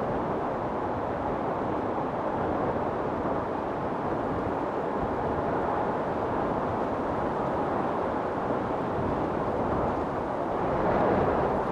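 Storm wind blowing hard and steady, a dense rushing noise that swells briefly near the end.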